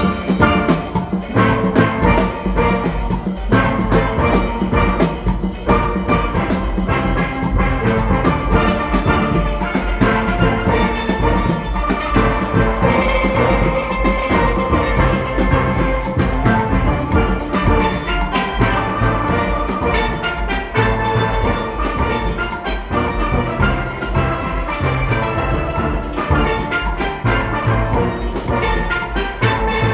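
A steel orchestra playing: many steelpans ringing out a melody and chords over a steady beat from the drum and percussion section, starting sharply at the opening.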